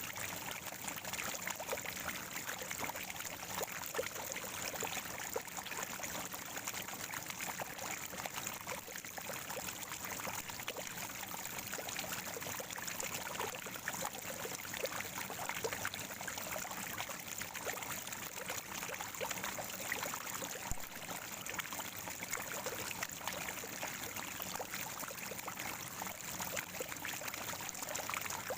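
Water at a natural spring gurgling and trickling steadily, with many small splashes and drips.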